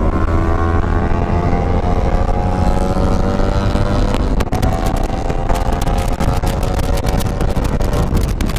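Motorcycle engine accelerating during a ride. Its pitch rises steadily, drops about four seconds in, then rises again.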